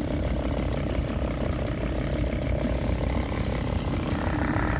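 Boat engine running steadily at low speed while the boat is manoeuvred, a constant low rumble.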